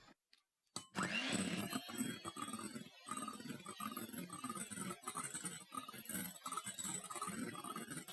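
Egg whites being whisked into meringue in a bowl, starting about a second in and running on steadily, as the last of the sugar is beaten in.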